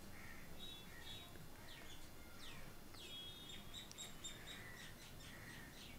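Faint birds chirping: a string of short high calls and quick falling chirps, one after another.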